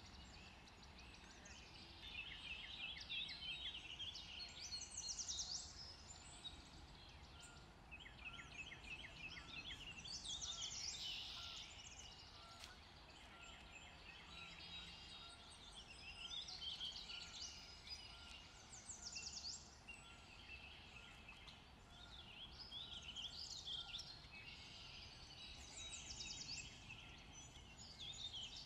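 Birds chirping and singing in short repeated phrases that come and go, over a faint steady low background hum.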